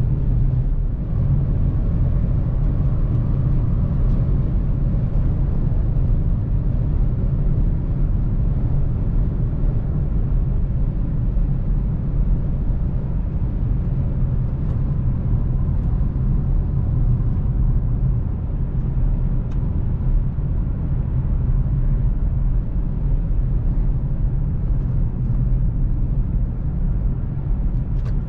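Volkswagen CC's 3.6-litre VR6 engine and tyre noise during steady driving: an even low rumble that holds the same level and pitch, with no revving.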